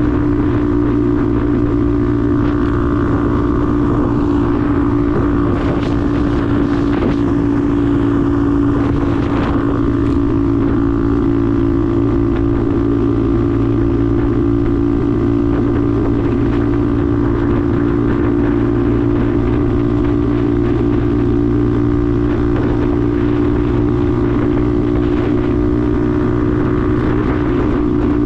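Benelli TNT 125's single-cylinder four-stroke engine running at a steady speed, its drone holding one pitch throughout.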